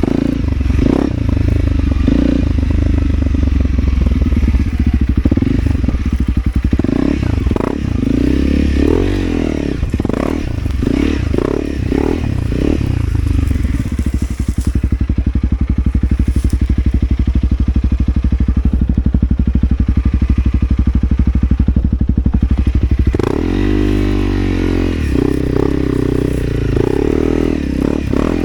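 Off-road motorcycle engine running at low revs, with clattering knocks through the middle of the stretch, then revving up and down near the end.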